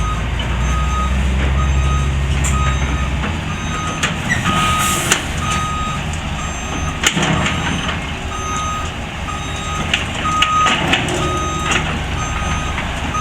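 Heavy truck reversing, its back-up alarm beeping evenly at about one and a half beeps a second over the rumble of its diesel engine. The engine is heavier for the first few seconds, and a few sharp knocks sound.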